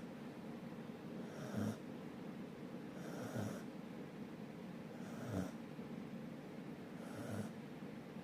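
Dog snoring in its sleep, four snores about two seconds apart, each about half a second long.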